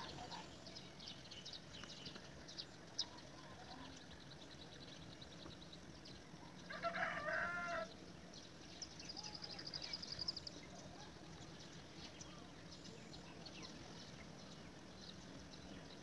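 Faint bird calls. Some seven seconds in there is one louder pitched call about a second long, shaped like a crow, followed by a fast trill of high ticks, over scattered high chirps.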